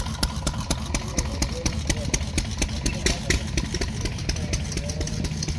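An engine running at idle, with a steady rapid clicking about eight beats a second over its low running note.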